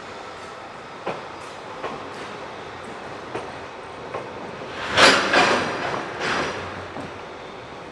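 A train rolling past with a steady rumble, its wheels clacking over rail joints: single clacks at first, then a loud cluster of clacks about five seconds in and another soon after.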